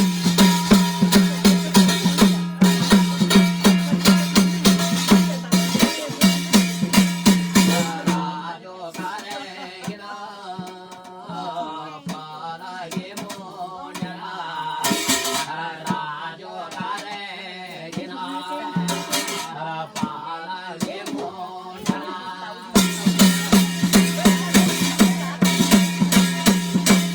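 Jagar folk music: fast, even drumming with rattling percussion over a steady low tone. About a third of the way in the drumming thins out under a wavering melody line, and it comes back in full near the end.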